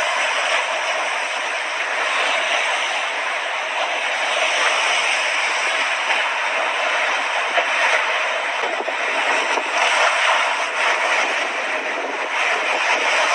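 Mediterranean sea waves washing onto the shore, a steady rushing surf that swells and eases slightly.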